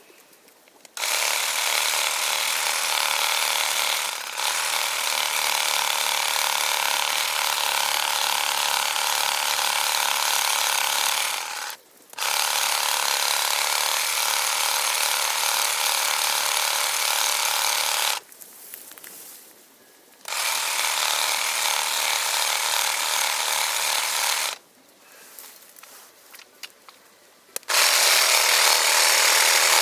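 Electric reciprocating saw cutting through garden tree wood in long runs of several seconds, stopping briefly between cuts about four times.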